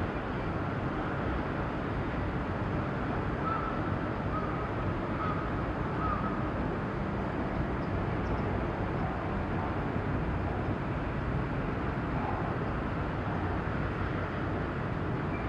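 Steady low rumbling outdoor harbour background of engines and city noise, with a few faint, brief chirps a few seconds in.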